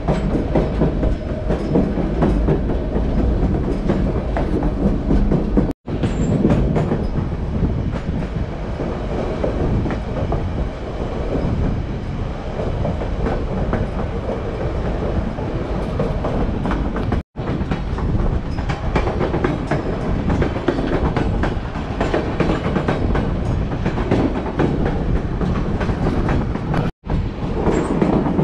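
Narrow-gauge passenger train running, heard from an open car platform: the steady sound of its wheels on the rails. The sound cuts out for an instant three times.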